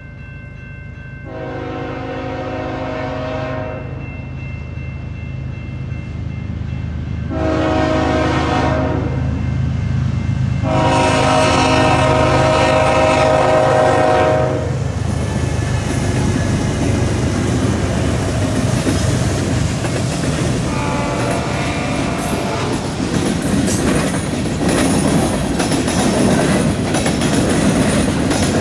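CN freight train's diesel locomotives approaching with a steady low rumble and sounding the horn in three long blasts over the first fifteen seconds, then a shorter, quieter fourth blast about twenty-one seconds in. The freight cars then roll past with growing clatter and clickety-clack of wheels over the rail joints and the junction switch.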